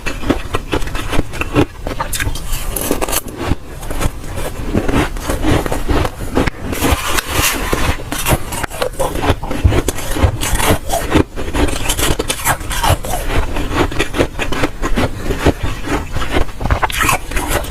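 Close-up crunching and chewing of soft, dry freezer frost, a dense unbroken run of crisp crunches.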